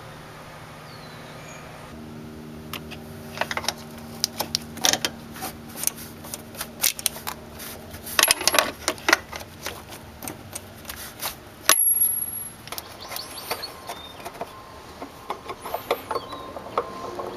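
Irregular metallic clinks, clicks and knocks, like tools and small parts being handled under a car's hood, over a steady hum that stops suddenly about 12.7 seconds in.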